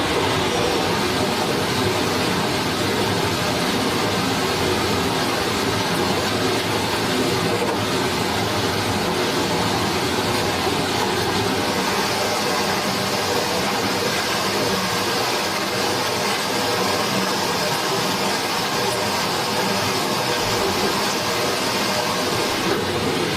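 Steady rushing of a forest stream, an even wash of water noise.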